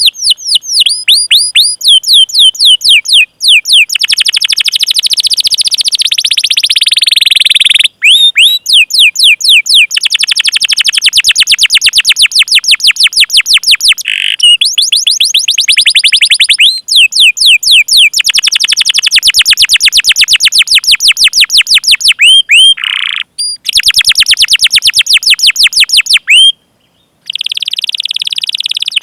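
Canary singing long rolled runs of rapid, repeated high chirps, each note a quick downward sweep, several notes a second. The runs change note type every few seconds, with short breaks and a brief silence near the end.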